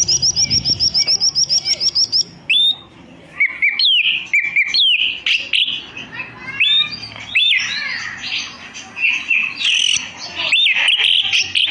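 Straw-headed bulbul (cucak rowo) singing: a rapid, even run of high chips for about two seconds, then loud, varied whistled phrases that rise and fall.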